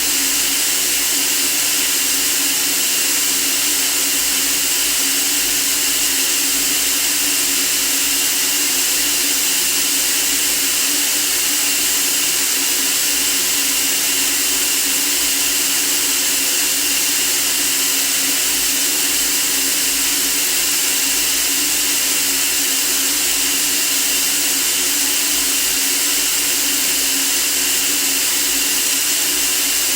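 Steady white noise for sleep: an even, unchanging hiss, strongest in the treble, with a faint low hum underneath.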